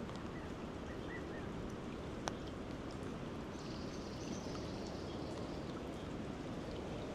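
Steady rush of water from the rain-swollen, flooded river and rain, with a single sharp tick about two seconds in.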